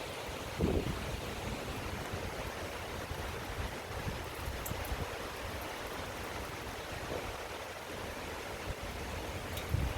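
Steady rain falling, an even hiss. Two brief low rumbles rise over it, about a second in and again near the end.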